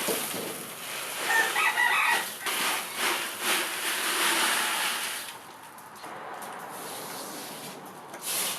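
Repeated gritty scraping strokes of sand and gravel being spread and worked by hand, going for about five seconds and then dropping to quieter, sparser scrapes.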